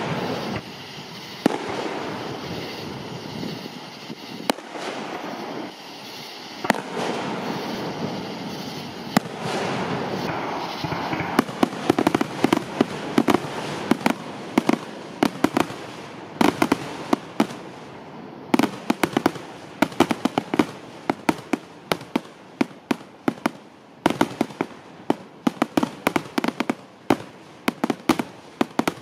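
Fireworks grand finale: aerial shells bursting in quick succession. A continuous rumble of overlapping booms gives way, less than halfway through, to a rapid run of sharp cracks, several a second.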